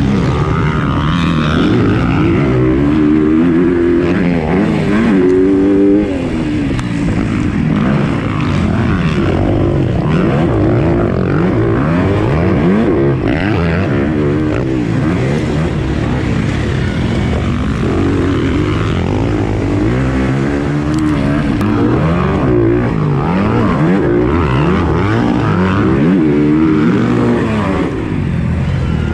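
Motocross bike engine running hard, the pitch rising and falling over and over as the throttle opens and closes through gear changes, with a short throttle-off dip about six seconds in.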